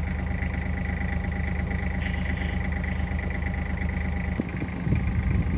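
Engine idling steadily with a low, even hum. About four seconds in there is a knock and the running sound changes.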